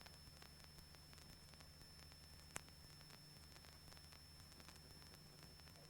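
Near silence: a faint steady electrical hum, with a single short click about two and a half seconds in.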